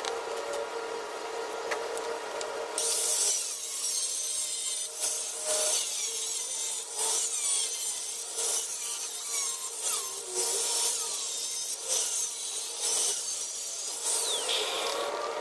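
Rhythmic hand scraping and rubbing strokes on tile and cement, roughly one a second, starting about three seconds in, over a faint steady hum.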